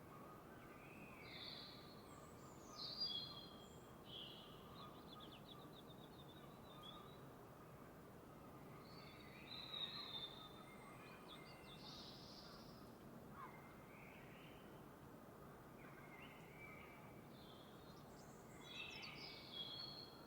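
Faint dawn birdsong: several birds chirping and trilling in short, scattered phrases over a soft steady hiss, loudest about three seconds in, again near ten seconds, and near the end.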